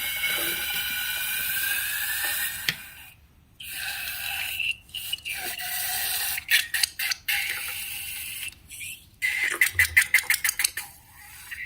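Slime being squeezed and pulled by hand, with a stretch of hissing early on, then wet, sticky crackles and a quick run of popping clicks near the end.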